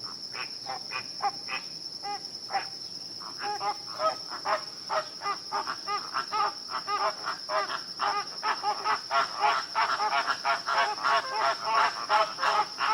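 A flock of flamingos calling: many short repeated honks, sparse at first and growing denser and louder from about three seconds in, over a steady high insect trill.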